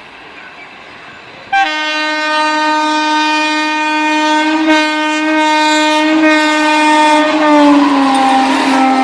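Indian Railways locomotive horn sounding one long, sustained blast that starts suddenly about a second and a half in. Its pitch drops slightly near the end as the noise of the moving train swells beneath it.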